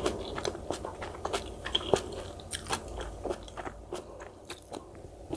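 Close-miked crunchy chewing: cubed radish kimchi (kkakdugi) crunching between the teeth in a run of sharp crackles, growing sparser near the end.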